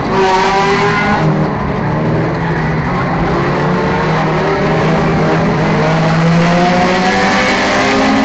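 Enduro-class race car engine running hard at racing speed. Its pitch climbs as it accelerates about a second in and again near the end.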